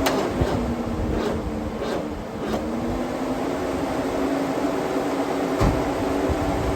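Ford 351 Windsor small-block V8 running steadily at idle after its tune-up, with the pitch dipping and picking back up briefly about two seconds in and a few light clicks over the top.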